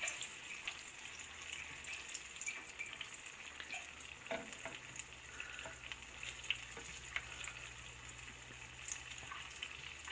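Breaded hellgrammites (dobsonfly larvae) shallow-frying in hot oil in a pan: a steady sizzle full of small crackles and pops. A spatula and fork now and then clink and scrape against the pan as the pieces are flipped.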